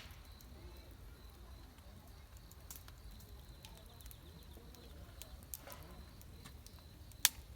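Campfire crackling: scattered small pops over a low rumble, with one sharp pop near the end.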